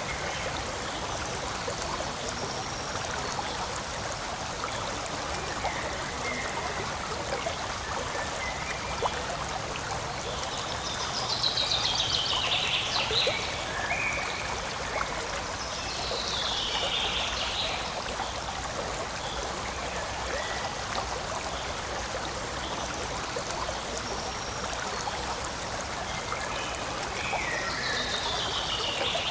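Forest stream flowing steadily over stones. A bird's song, a quick trill falling in pitch, comes through three times, with a few short chirps between.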